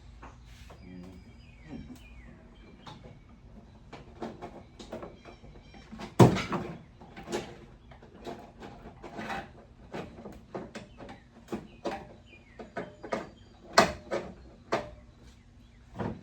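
Irregular knocks, clicks and rattles of shift cables and car parts being handled while working the cables through a car's firewall, with two louder knocks about six seconds in and near fourteen seconds.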